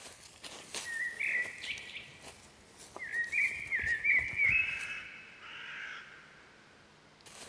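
A bird chirping in two runs of short, high, stepped calls: one about a second in, and a longer run from about three to five seconds in. A few soft crunches of footsteps on dry leaf litter come in the first two seconds.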